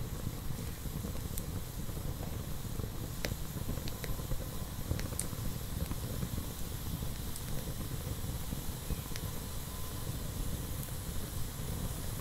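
Wood campfire burning, with scattered sharp crackles and pops at irregular moments over a steady low rumble.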